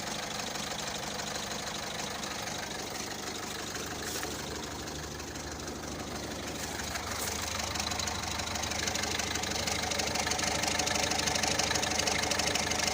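Citroën C3 engine idling with a rapid, regular clacking noise. It grows louder about halfway through. The owner cannot identify the noise and suspects the accessory belt or a worn idler pulley.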